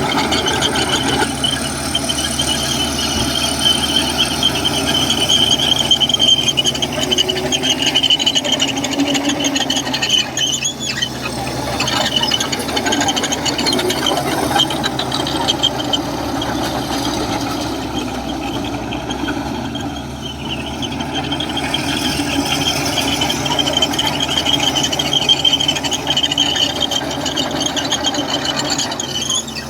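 Komatsu bulldozer's diesel engine running steadily while its steel crawler tracks squeal as it works.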